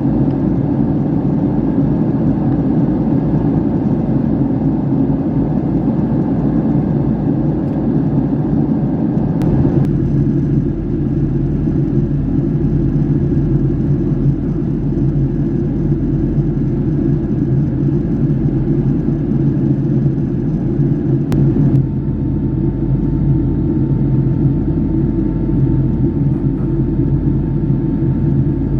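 Steady jet engine and airflow noise inside the economy cabin of a Boeing 757-300. The hum shifts abruptly twice where separate recordings are joined.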